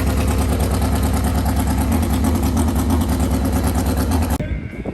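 Motorcycle engine running steadily at a constant pitch, loud and low, cutting off suddenly about four and a half seconds in.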